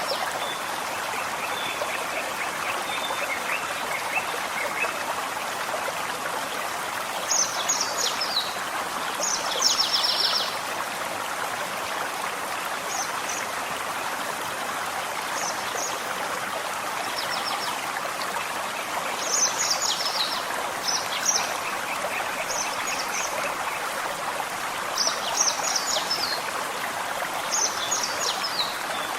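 Gentle forest stream running steadily, with birds singing over it: short phrases of high chirps every few seconds, and a rapid, lower trill near the start and again about two-thirds of the way through.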